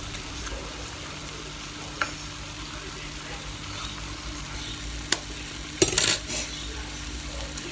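Cooking sounds: a steady hiss of food frying over a low hum, with single sharp clinks of a utensil on cookware about two and five seconds in, and a louder quick clatter about six seconds in.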